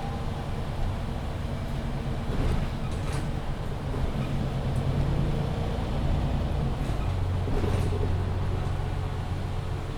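Interior sound of a MAN Lion's City 19C EfficientHybrid articulated bus with a Voith automatic gearbox: a steady low engine and drivetrain hum, with a few short clicks and rattles from the bodywork. The hum grows stronger about seven seconds in.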